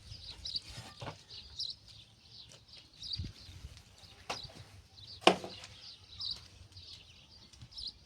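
Small birds chirping in short, repeated bursts, with a few scattered sharp knocks; the loudest knock comes about five seconds in.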